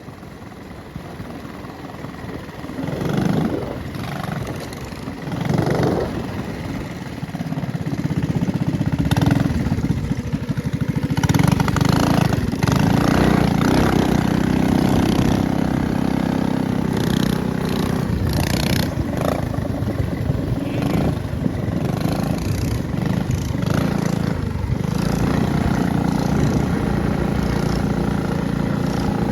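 Minibike's small single-cylinder engine running, with two brief swells in the first few seconds before it settles into a louder, steady run from about seven seconds in.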